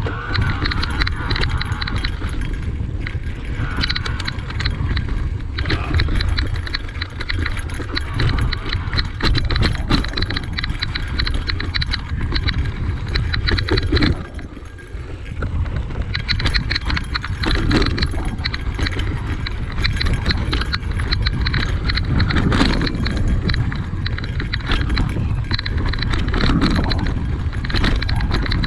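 Electric mountain bike riding down a rocky dirt trail: tyres crunching over the ground and the chain and frame rattling and clattering over bumps, over a steady low rumble. It drops briefly about halfway through.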